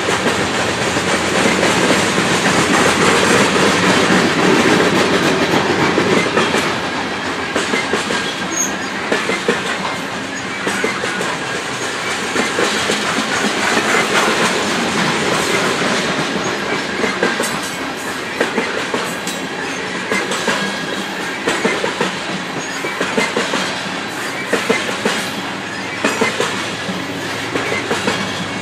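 Loaded coal train's hopper cars rolling past, their steel wheels clicking over rail joints in a steady clickety-clack.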